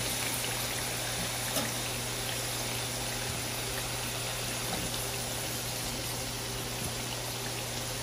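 Wedges of precooked breadfruit shallow-frying in hot oil in a pan: steady sizzling of bubbling oil, with a few faint ticks and a low hum underneath.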